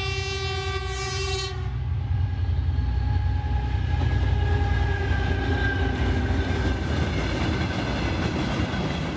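Diesel commuter train's horn sounding one long blast that stops about a second and a half in. It is followed by the steady low rumble and rail noise of the passenger coaches rolling past close by.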